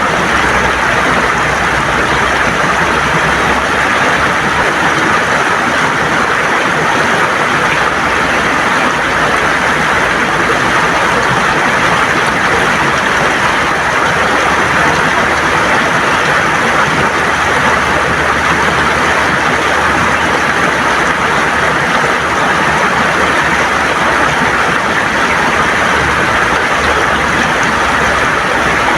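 River water gurgling and rushing over stones, a steady loud rush with no let-up.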